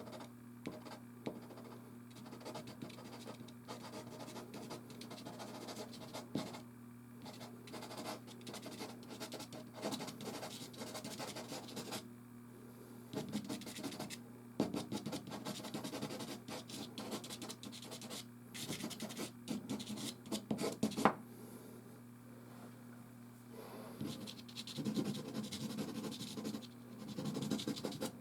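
Soft pastel stick scratching and rubbing across canvas in quick irregular strokes, pausing twice, with a sharp tap about two-thirds of the way through. A steady low hum runs underneath.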